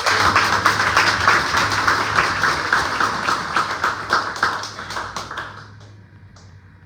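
An audience clapping: many hands applauding, thinning out and dying away about five and a half seconds in.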